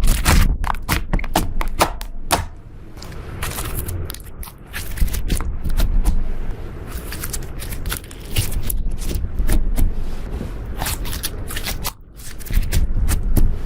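Slime being squeezed and kneaded by hand, giving a rapid run of sticky clicks and little pops, easing off for a moment about two seconds in and again briefly near the end.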